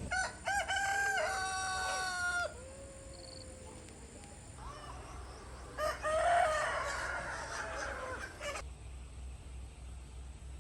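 A rooster crows: one long, held call that trails off after about two and a half seconds. From about six seconds in, a harsher, rougher chicken call lasts a couple of seconds.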